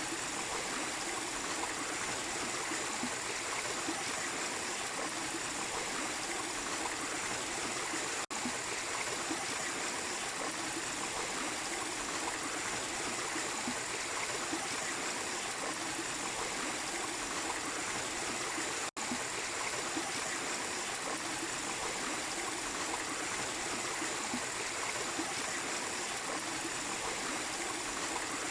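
A small waterfall's steady rush of falling and splashing water. It cuts out for an instant twice.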